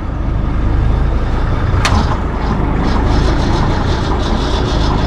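Heavy truck engine idling steadily, with faint rapid ticking above the rumble and one sharp click about two seconds in.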